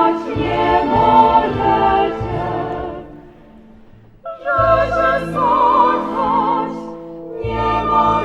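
Women's voices singing a Polish folk love song together, with vibrato. One phrase fades out about three seconds in, and after a short pause a new phrase begins sharply a little after four seconds in.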